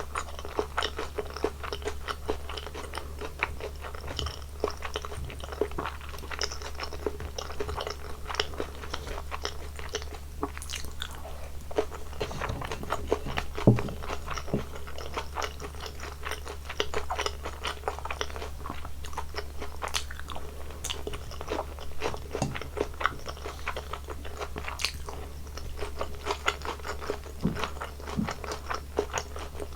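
Close-miked eating sounds: a person chewing steadily, with many small, irregular crunchy clicks and one louder low knock about halfway through.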